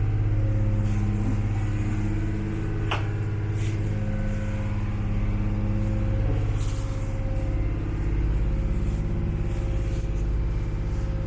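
Tour boat's engine running steadily with a low, even drone. There is a brief click about three seconds in.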